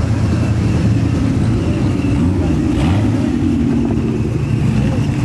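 Car engines running steadily, with a brief rise and fall in pitch about two to three seconds in.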